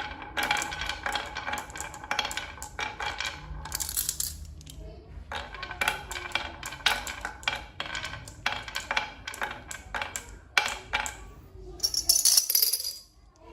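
Quick, irregular clinks and clatters of small hard objects knocking together, many leaving a short ringing tone, with a brief hiss near the end.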